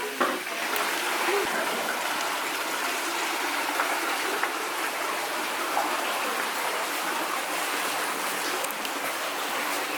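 Steady rushing water sound, an even hiss with no change in level.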